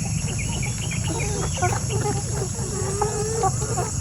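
A flock of laying hens clucking and calling, many short overlapping calls, over a steady high insect drone.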